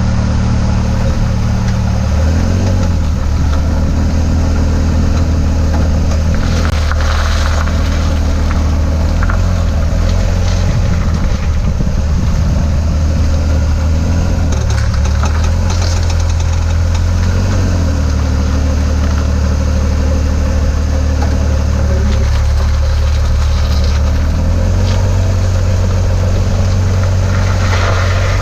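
2004 Chevy Trailblazer driving with its engine running, the engine note shifting up and down several times, with a few short bursts of grinding noise from the front end when turning, about a third of the way in, near the middle and near the end. The grinding comes from a failing CV axle.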